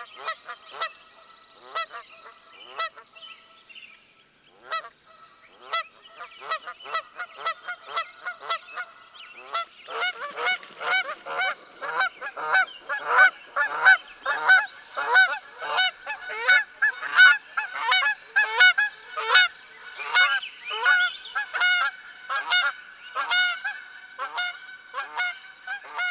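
A chorus of short, repeated bird calls, sparse at first, then many birds calling together and louder from about ten seconds in.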